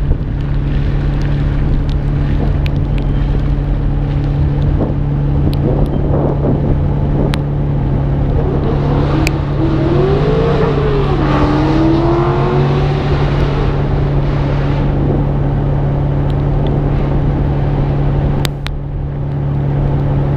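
The R32 Skyline GT-R's RB26 twin-turbo straight-six drones steadily at a constant cruise, with wind and road noise over the hood. About halfway through, a separate tone rises and then falls back. Occasional sharp ticks cut through.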